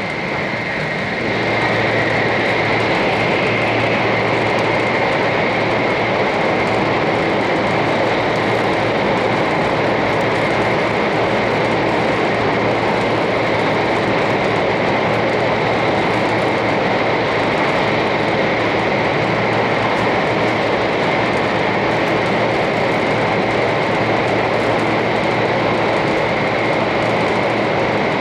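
Cabin noise inside a 500 series Shinkansen car running along the line: a steady rush with a thin high tone over it, growing louder about a second and a half in and then holding.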